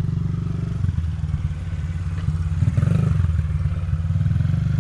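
Motorcycle engine running at a light, steady throttle as the bike circles slowly, its note getting a little louder about three seconds in.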